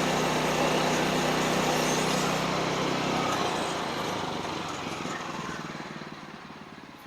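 Band sawmill's engine running steadily, then cutting out about three seconds in, its sound dying away gradually as the mill winds down.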